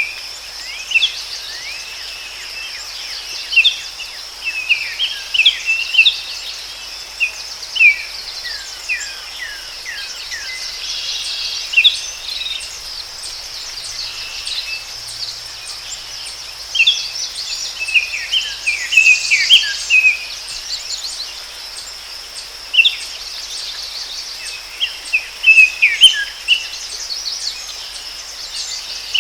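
Forest ambience: a steady high insect drone under many birds chirping, short falling chirps coming in bunches, busiest near the middle and near the end.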